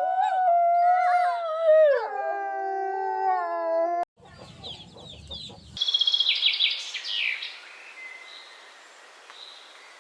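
A long, howl-like animal call, held steady and then dropping in pitch about two seconds in, breaking off suddenly after about four seconds. Later a short burst of rapid high bird chirps follows.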